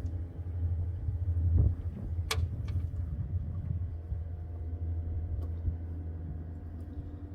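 Steady low rumble of wind buffeting the microphone, with one sharp knock a little over two seconds in.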